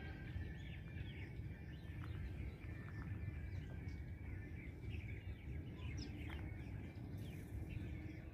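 Several small birds chirping in quick, short calls, over a steady low background rumble.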